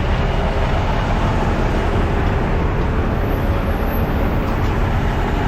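Steady, loud rumble of a heavy diesel dump truck running, engine and road noise mixed.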